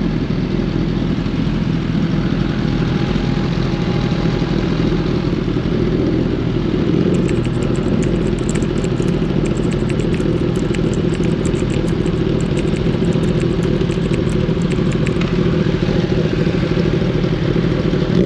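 Liter-class sport bike's inline-four engine and exhaust running steadily at an even engine speed, with no revving. A run of fast, light ticks sounds through the middle stretch.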